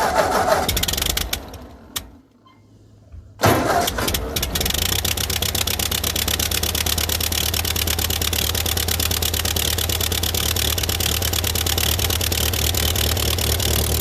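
1946 Ford 2N tractor's four-cylinder flathead engine on a cold start: a first attempt cuts off within the first second; about three and a half seconds in it is cranked again, catches, and settles into a steady, even run.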